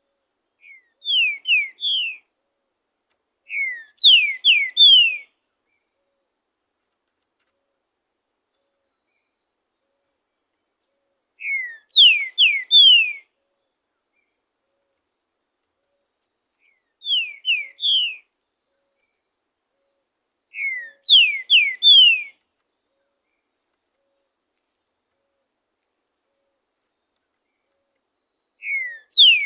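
Green-winged saltator (trinca-ferro) singing: six short phrases, each of three or four loud falling whistled notes, repeated with pauses of a few seconds between.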